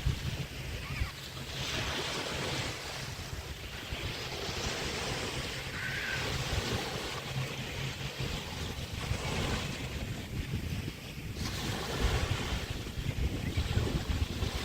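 Small bay waves washing onto a beach, the hiss of each wave swelling and fading every few seconds, with wind rumbling on the microphone.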